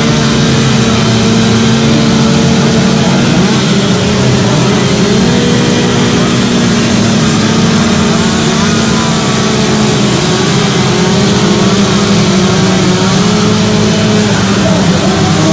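Two-stroke chainsaws running at high revs during carving, their pitch dipping and rising as the chains bite into the wood and free up again.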